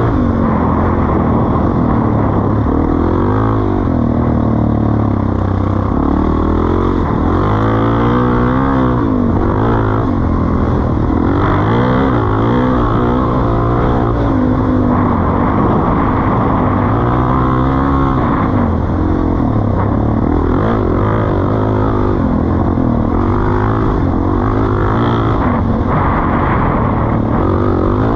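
Suzuki DR-Z400E's single-cylinder four-stroke engine breathing through a Pro Circuit T-4 exhaust, revving up and dropping back again and again.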